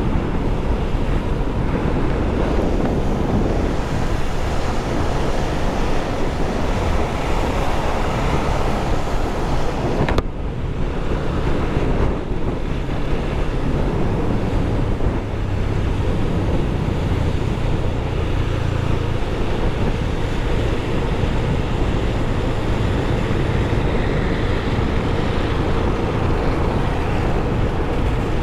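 Wind rushing over the microphone on a moving Yamaha FZ25 motorcycle, with its single-cylinder engine running steadily underneath along with road noise. The rush briefly drops about ten seconds in.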